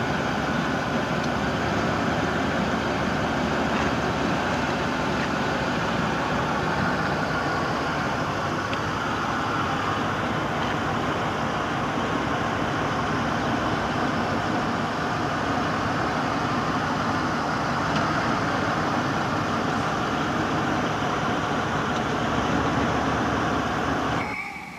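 Car engine running steadily at idle, a constant hum and rumble with no revving, cutting off suddenly near the end.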